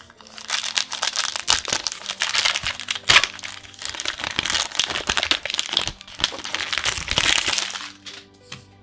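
Plastic foil wrapper of a Magic: The Gathering booster pack crinkling and crumpling as it is handled and opened, a dense run of crackles that stops about eight seconds in.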